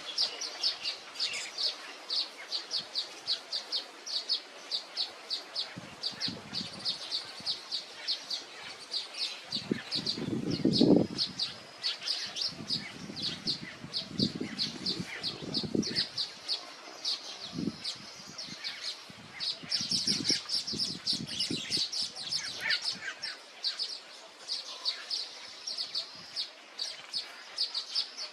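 A small bird chirping over and over in short high notes, about four a second. Several low rustling bursts fall in the middle, the loudest about ten seconds in.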